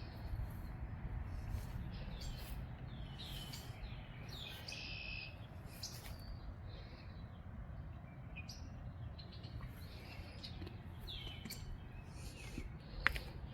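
Backyard songbirds chirping, short high notes repeating throughout over a steady low rumble of wind. There is a single sharp tick near the end.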